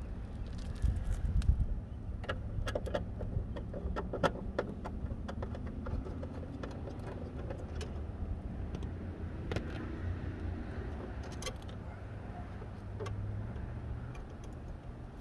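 Scattered sharp metallic clicks and clinks of tools and metal parts being handled, in a cluster about two to four and a half seconds in and a few more later, over a steady low rumble.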